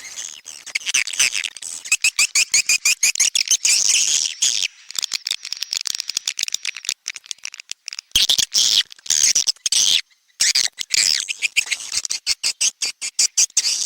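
Swiftlet lure recording: rapid, dense chittering and trilling calls of edible-nest swiftlets, of the kind played at a swiftlet house to draw birds in to nest. The calls break off briefly about ten seconds in.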